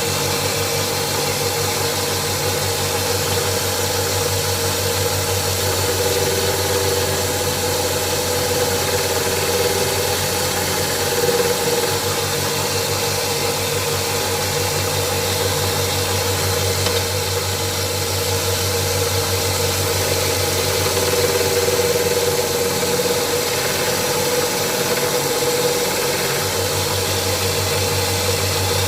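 Belt sander running steadily while the back of an old steel chisel is ground flat on the abrasive belt: a constant motor hum under an even grinding hiss.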